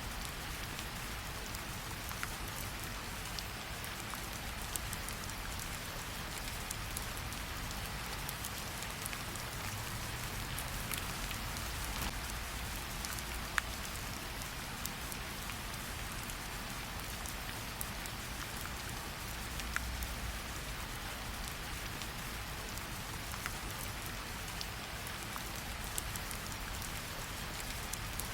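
Steady rain falling with a campfire, an even hiss broken by scattered sharp crackles.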